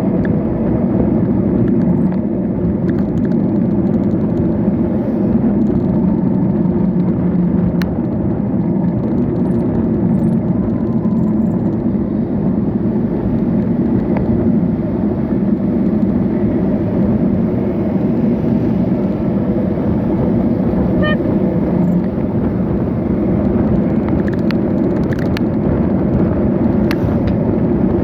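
Steady rushing road noise of a ride in traffic: wind on the microphone and passing cars, with a few faint ticks.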